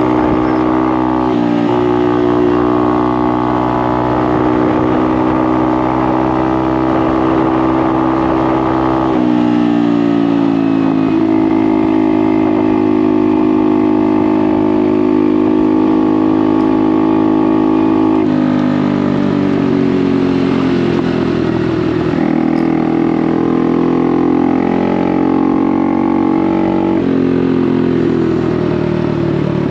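Honda Navi's small single-cylinder engine running loud through an aftermarket Vance & Hines performance exhaust while riding. The engine note holds a steady pitch for several seconds at a time, then shifts up or down in pitch several times with the throttle.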